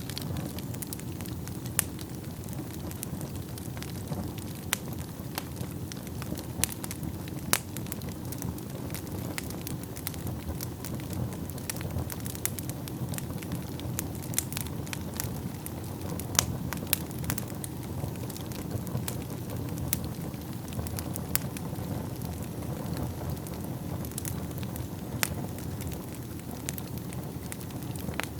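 Wood fire burning in a fireplace: a steady low rumble of flames with frequent crackles and occasional sharp louder pops from the burning logs.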